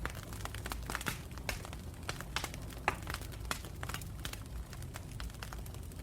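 Wood campfire burning, with irregular sharp crackles and pops over a low steady rumble of the flames, one pop louder than the rest a little under three seconds in.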